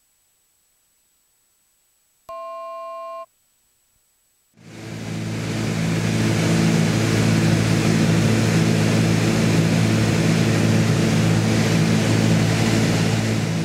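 Steady drone of the Cessna 310's twin piston engines and propellers in the cabin, fading in about four and a half seconds in and then holding level. Before it there is a near-silent stretch, broken about two seconds in by a single electronic beep about a second long.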